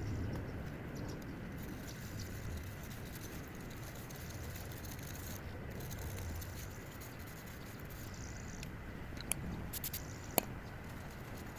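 Steady low background rumble, with a few light, sharp clicks about nine to ten seconds in, like small metal parts being handled.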